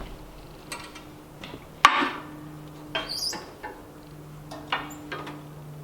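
A few sharp knocks and clatters at irregular intervals, the loudest about two seconds in, over a faint steady hum.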